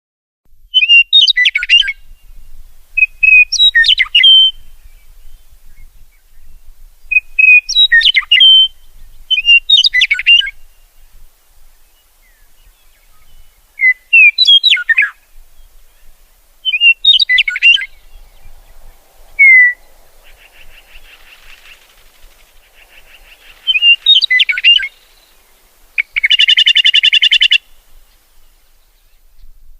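Songbird singing short, loud, sweeping whistled phrases every two to three seconds, with a buzzy trill near the end.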